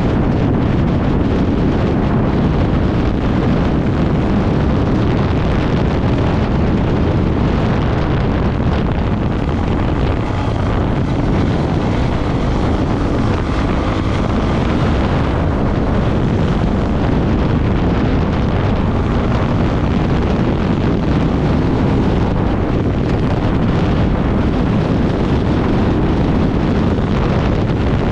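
Heavy wind buffeting on the microphone over the steady running of an off-road motorcycle engine at speed.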